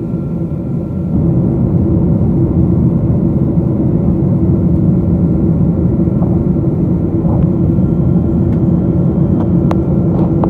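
Steady cabin noise of a Boeing 777-200 in flight: a loud low rushing roar of engines and airflow with a steady hum over it. A few faint clicks near the end.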